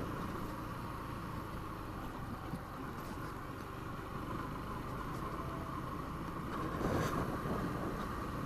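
Yamaha XTZ 125 single-cylinder motorcycle being ridden, its engine running steadily under wind rush on the microphone, with a brief louder swell about seven seconds in.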